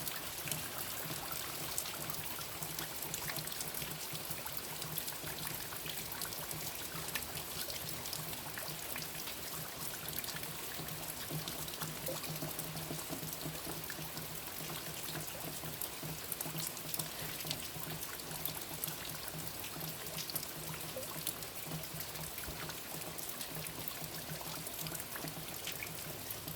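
Light rain dripping and trickling after a downpour: a steady wash of water with many small drop ticks, and a faint low steady hum underneath.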